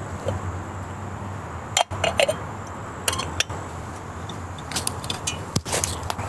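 Scattered light clinks and clicks of camp cookware and utensils being handled, over a steady low hum.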